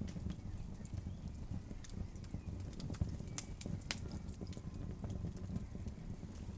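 Log fire crackling: scattered sharp pops and snaps over a steady low rumble of burning wood, the sharpest pops about three and four seconds in.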